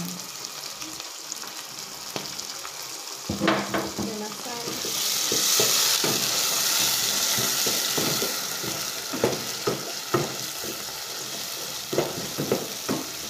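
Food sizzling as it fries in a cooking pot, with a spoon stirring and knocking against the pot. About five seconds in, the sizzle swells louder for a few seconds, then settles back.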